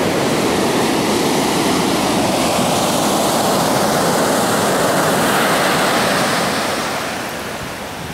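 Ocean surf rushing, loud and steady, then easing off near the end.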